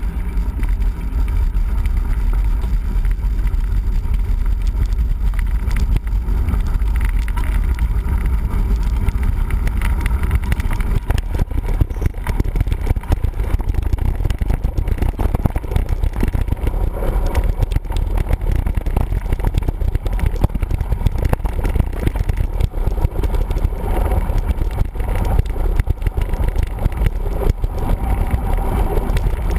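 Mountain bike riding over rough ground, heard through the camera's microphone as a steady low wind rumble with a constant fast rattle and knocking from the bike.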